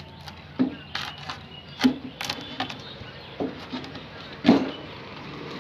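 A series of irregular knocks and thuds, about nine in five seconds, the loudest about two seconds in and again near the end, over a steady low hum.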